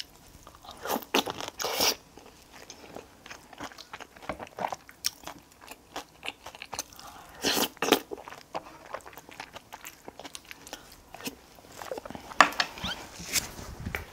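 A person chewing food and biting into something crunchy, with a few louder crunchy bites about a second in, near the middle and near the end.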